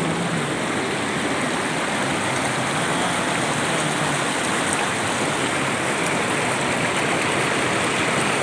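Running water rushing steadily, a constant hiss-like roar without breaks.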